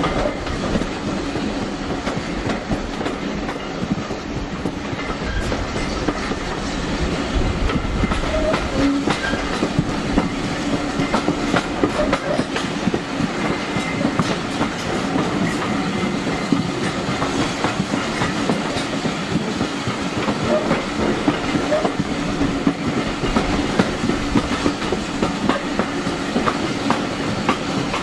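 Running noise of a heritage railway coach in motion: a steady rumble, with the wheels clicking and clattering over the track throughout.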